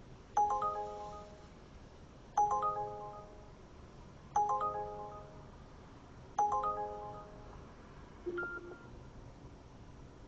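A phone ringtone: a short melodic chime figure with a sharp start that fades out, repeating about every two seconds, four times. A different, shorter tone follows near the end.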